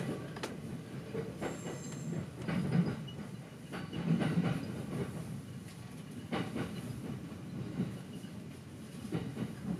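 Electric train heard from inside the carriage, rolling slowly over pointwork: a steady low rumble broken by irregular clunks of the wheels over rail joints and switches, with a brief high wheel squeal about a second and a half in.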